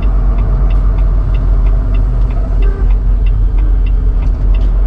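Semi-truck engine and road noise rumbling steadily inside the cab, with a regular ticking about three times a second.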